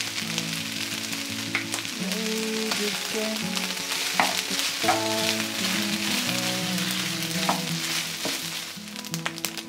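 Chicken rice with ketchup sizzling in a nonstick frying pan while a wooden spatula stirs and scrapes through it, with many small clicks over the hiss. The sizzle eases off near the end. Soft background music plays underneath.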